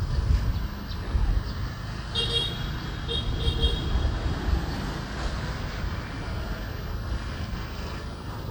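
Riding-along traffic noise and low rumble from a moving motorbike, with a vehicle horn beeping about two seconds in, then two short beeps a second later.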